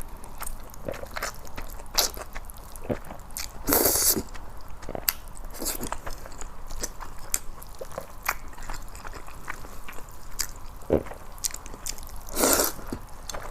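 Close-miked eating of seasoned noodles: wet chewing and mouth clicks throughout, with two louder, longer slurps, about four seconds in and near the end.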